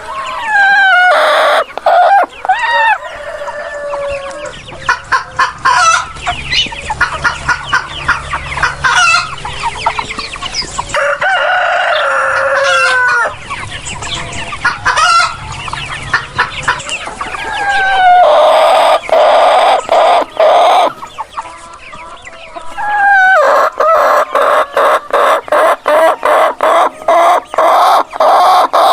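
Chickens clucking and cackling, with roosters crowing in drawn-out calls that fall in pitch. Near the end a fast, dense cackling runs almost without a break.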